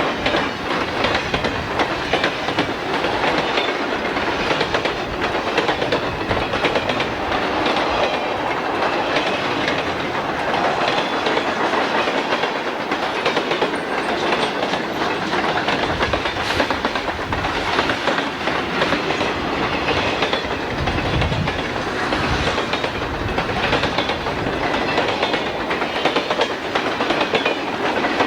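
Freight train cars rolling past, their wheels clicking steadily over the rail joints.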